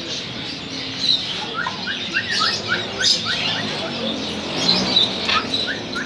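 Birds chirping: two quick runs of short rising chirps, about four a second, with sharper high-pitched calls in between.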